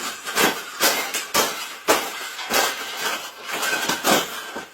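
Repeated hard knocks and rattles of a bird cage being struck and broken apart, about two blows a second.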